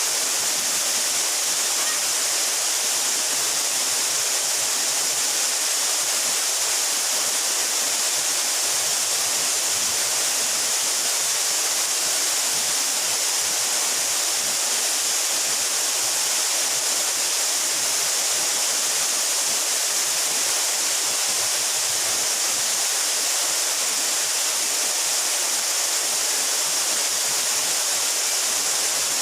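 Mountain waterfall crashing steadily into its pool, a constant even rush of water that is strongest in the hiss.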